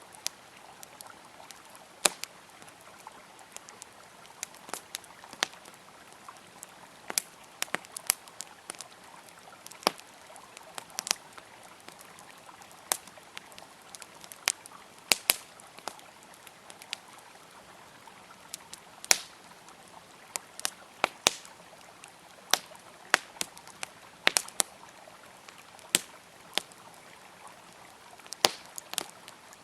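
Wood campfire crackling with sharp, irregular pops over the steady rush of a flowing river.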